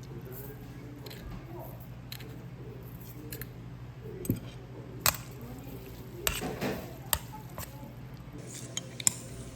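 Scattered sharp clicks and clinks of tableware at a meal, about six, mostly in the second half, over a steady low hum.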